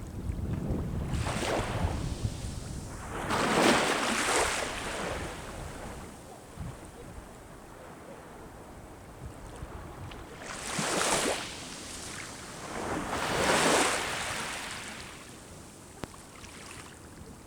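Sea waves breaking on the shore: four surges of wash that swell and fade, two in the first few seconds and two more later on. Low wind rumble on the microphone, mostly at the start.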